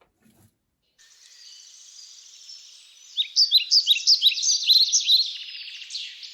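Songbird calls: a high, rapid trill starts about a second in, and from about three seconds a loud run of short, sharp notes, each sliding down in pitch, joins it.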